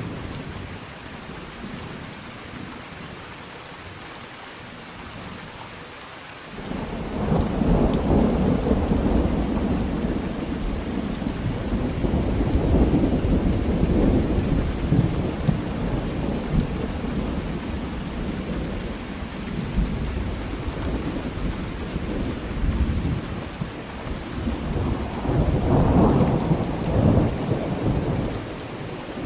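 Thunderstorm: steady rain, with a long rolling rumble of thunder that starts suddenly about six seconds in and swells again near the end.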